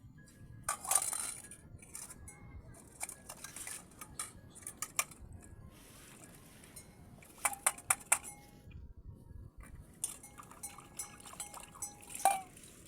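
Scattered clinks and knocks of hard objects, with a brief ringing metallic note from one knock near the end.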